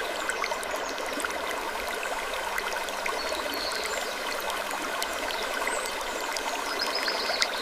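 Steady rushing, water-like ambience with many small scattered clicks and a couple of brief high creaks.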